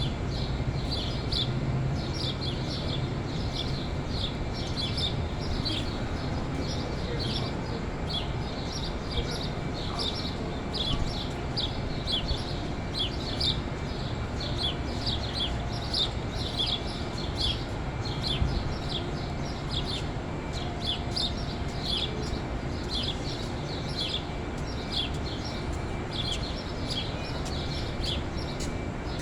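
A flock of small birds chirping without pause, short high chirps several a second, over a steady low rumble.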